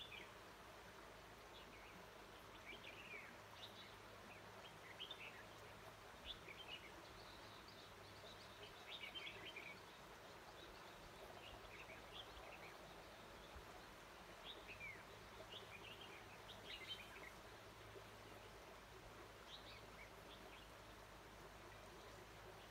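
Red-whiskered bulbuls calling faintly: short chirps and brief whistled phrases scattered throughout, over a steady low background hum.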